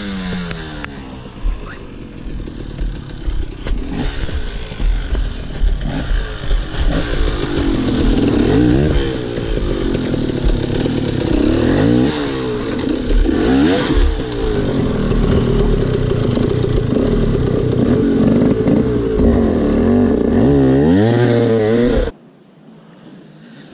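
Two-stroke dirt bike engine revving hard, its pitch rising and falling again and again with the throttle. The sound cuts off suddenly near the end.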